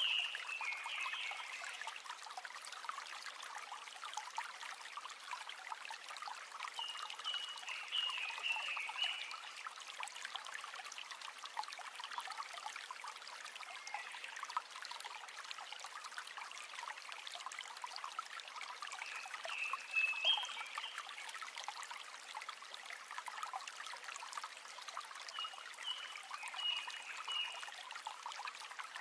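River water flowing and trickling steadily, with no deep rumble. Short high chirping calls come four times, several seconds apart.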